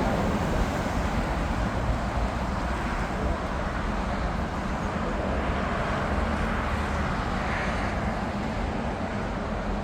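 Jet airliner engines running, a steady rush and rumble with no sudden changes.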